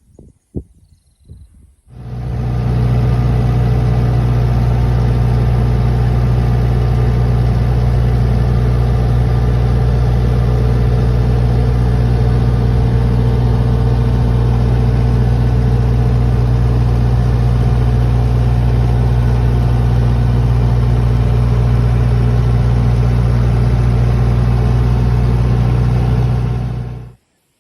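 Excavator engine running at a steady speed, an even low drone. It comes in about two seconds in and cuts off suddenly near the end.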